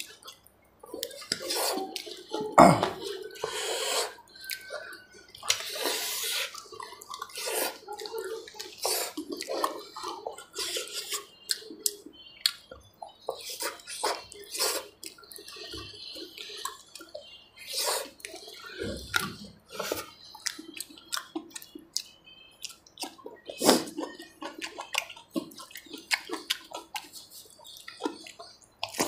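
Close-miked wet chewing and lip-smacking of a person eating a meal by hand, a string of irregular short wet smacks and clicks, with food squishing between the fingers.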